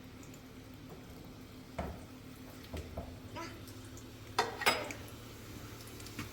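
Kitchenware being handled: scattered clinks and knocks, the loudest two close together about four and a half seconds in, over a low steady hum.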